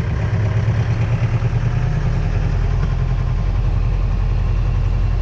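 Safari jeep's engine running steadily as the jeep drives along, a low drone with road and wind noise over it.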